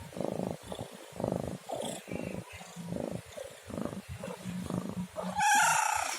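Domestic cat making low, pulsing rumbling sounds in short repeated bursts, then one loud, high meow near the end.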